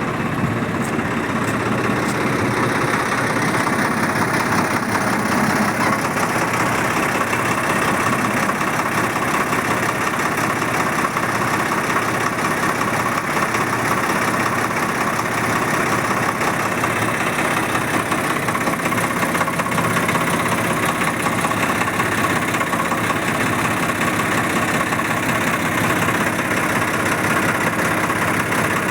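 Swaraj 855 tractor's three-cylinder diesel engine running steadily.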